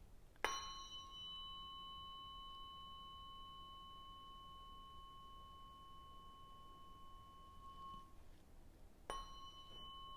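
Tuning fork struck about half a second in, ringing with a clear, steady high tone that fades out after about seven and a half seconds, then struck again near the end. These are Biofield Tuning forks used for sound healing.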